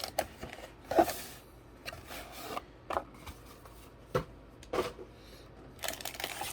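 Hands going through the contents of a cardboard trading-card box: a handful of separate light taps and clicks, with short rustles of cards and paper about a second in and again near the end.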